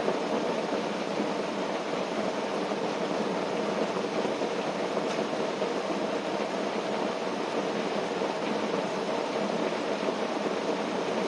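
Steady rain pattering on a tent, an even rushing hiss with a few faint separate drop ticks.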